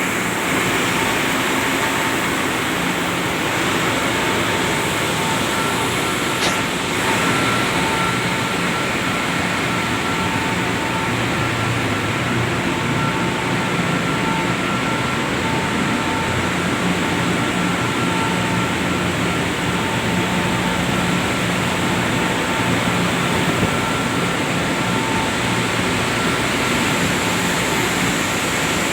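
Ship's engine-room machinery, the diesel engines running, a loud steady roar with a faint high whine over it. A short sharp click cuts through about six seconds in.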